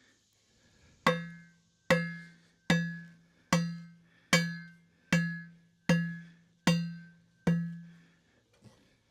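Hammer striking metal, nine evenly spaced blows a little under a second apart, each one ringing briefly.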